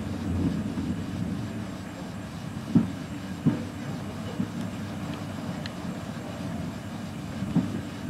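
Passenger railway carriage running along the line, heard from inside: a steady low rumble with a few sharp knocks from the running gear.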